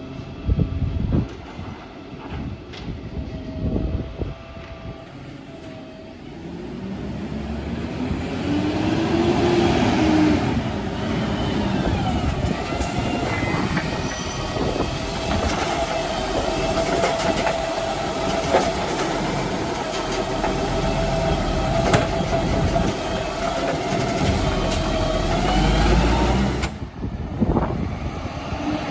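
Garbage truck working: its engine rises and falls in pitch, then a steady whine runs for about ten seconds and cuts off suddenly near the end, with a few sharp knocks along the way.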